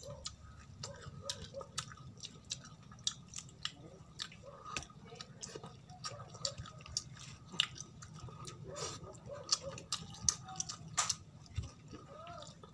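Close-up chewing and lip smacking while eating fried fish and rice by hand, with many sharp wet mouth clicks and a few soft murmured sounds, over a low steady hum.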